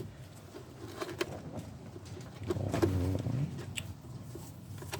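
A pigeon cooing once, about two and a half seconds in, over a few light clicks of small parts being handled.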